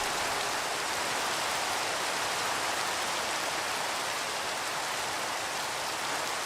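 Steady rain: an even hiss of rainfall on its own, with no music over it.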